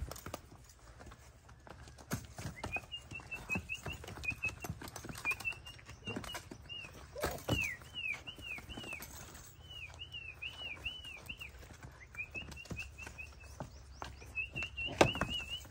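A small bird chirping in quick runs of short, repeated notes, with scattered knocks and shuffles of donkey hooves on dry dirt. A sharp knock near the end is the loudest sound.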